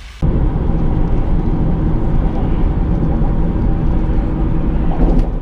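Steady low rumble of a car on the road, heard from inside the moving car, starting suddenly a moment in.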